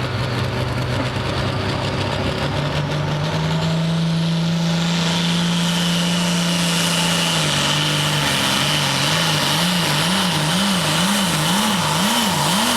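Hot farm pulling tractor's engine running hard under load, its pitch climbing early on, then surging up and down about twice a second in the last third as the tractor bounces down the track. A high whine comes in about halfway.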